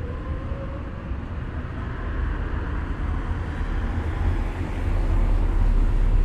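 A low vehicle rumble that grows louder through the second half, with a faint steady whine above it.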